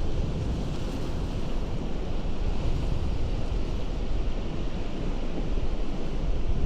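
Ocean surf breaking on a rocky coast: a steady rush of water with a deep rumble underneath, and no single crash standing out.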